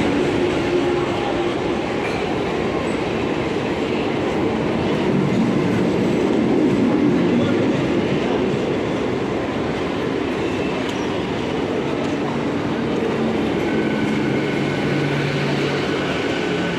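Mumbai suburban local train running, a steady rumble of wheels and carriages on the track.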